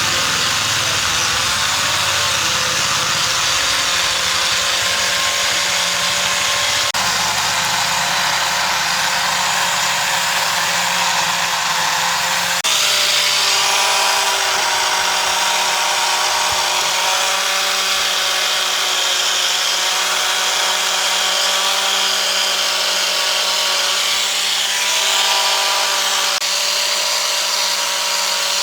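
A handheld power tool running continuously under load on wood, its motor pitch wavering slightly, with abrupt changes in the sound about seven and about thirteen seconds in.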